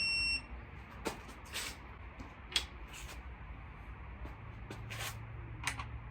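A digital torque wrench gives one short electronic beep, the signal that the bolt has reached its set torque. Scattered metal clicks and clinks of tools and engine parts follow, and a faint low hum sets in about four seconds in.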